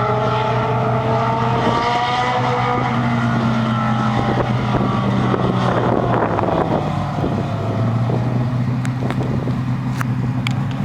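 Legend race car engine running steadily, with higher engine notes gliding up and down in the first few seconds and a few sharp ticks near the end.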